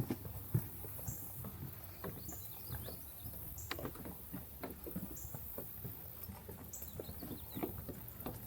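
Footsteps of a person walking along a nature trail at an even pace, a steady run of short crunches and knocks.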